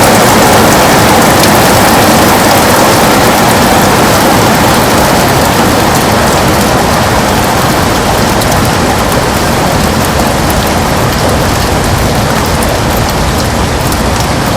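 Heavy rain beating on a window: a dense, steady hiss of drops with many fine taps, easing slightly in loudness over the stretch.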